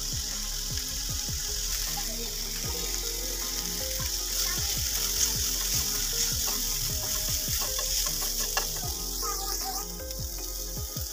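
Chicken pieces and onion sizzling in a hot frying pan as they are stirred with a spoon; the sizzle is loudest in the middle.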